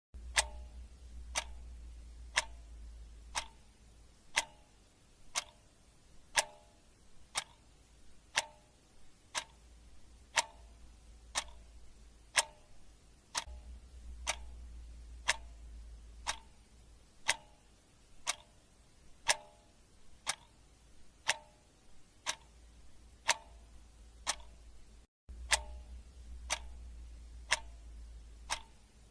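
Clock ticking steadily, one sharp tick a second, each tick with a short metallic ring. A faint low hum sits under the ticks in stretches, and the sound cuts out for a moment about 25 seconds in.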